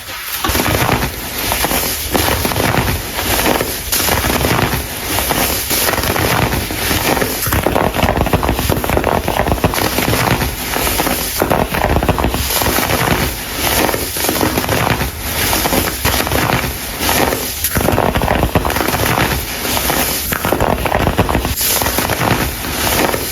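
Baking soda crumble being crushed, a dense, continuous crunching crackle of many small snaps.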